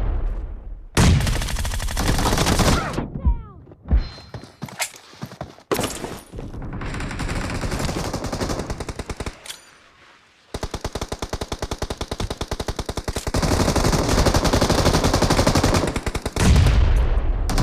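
Video-game gunfire: a few loud bursts, then long runs of rapid automatic fire with a short break about ten seconds in, and a loud burst again near the end.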